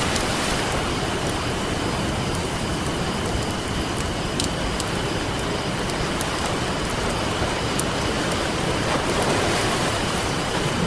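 Ocean waves washing on a beach, swelling near the start and again about nine seconds in, with the scattered sharp pops of a crackling campfire.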